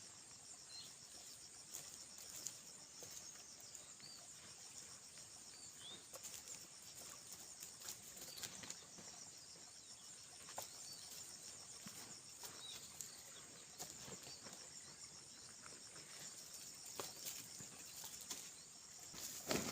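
Steady high-pitched insect chorus with a fine pulsing rhythm, with short bird chirps every few seconds and scattered faint knocks.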